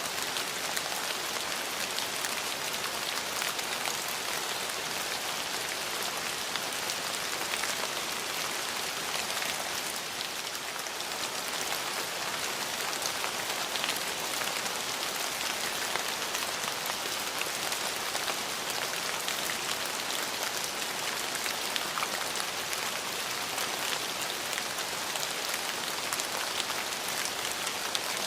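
Steady rain falling and pattering on surfaces, an even hiss with fine individual drop ticks and no thunder.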